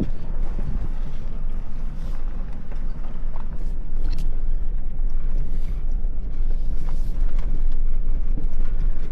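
Full-size pickup with a slide-in truck camper crawling over a rough two-track: the engine runs with a steady low drone while the camper and truck body creak and rattle over the bumps.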